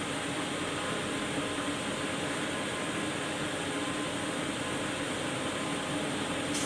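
A machine running steadily: an even hum with a low drone, without change or pauses.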